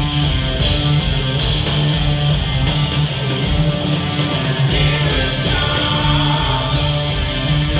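Progressive metal band playing live: distorted electric guitars holding sustained chords over bass and drums.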